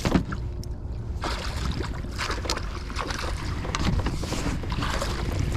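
Wind rumbling on the microphone, with water splashing and small knocks at a fishing kayak that pick up from about a second in.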